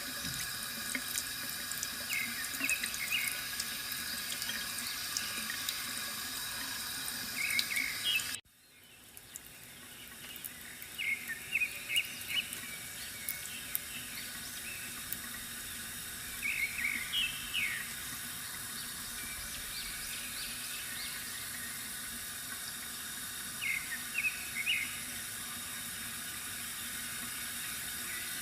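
Water trickling steadily from a bamboo fountain, with short bursts of bird chirps every few seconds. About eight seconds in the sound cuts out abruptly and fades back in over a second or two.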